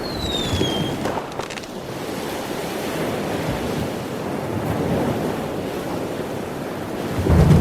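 Sea waves and wind, an even rush with wind buffeting the microphone. A short high whistle falls in pitch right at the start, and music starts loudly just before the end.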